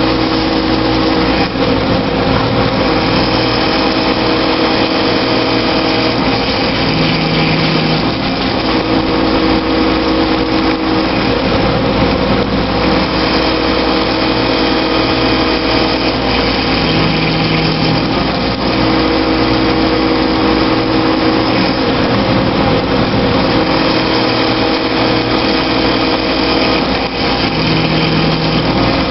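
CNC milling machine running a cutting program: steady spindle and cutting noise, with tones that switch on and off every few seconds.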